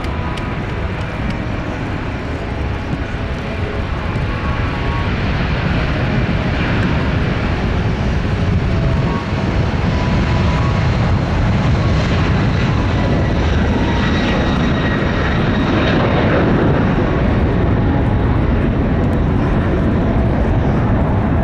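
KC-46A tanker's twin turbofan engines at takeoff power: a loud, steady jet rumble that grows louder over the first several seconds, then holds.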